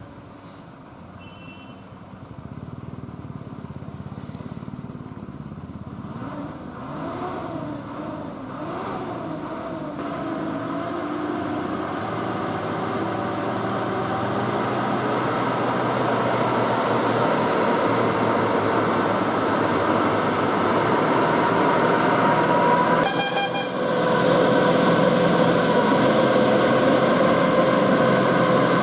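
Eicher lorry's diesel engine growing steadily louder as it comes up a ghat road. Its pitch rises and falls with the load early on, then settles into a steady drone that becomes the loudest sound near the end.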